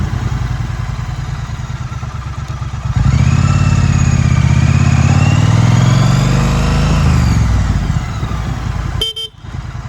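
2016 Triumph Street Twin's parallel-twin engine running on the move. About three seconds in it gets louder and pulls harder, its pitch rising and falling, then eases off near the end, with a short sharp break just before the end.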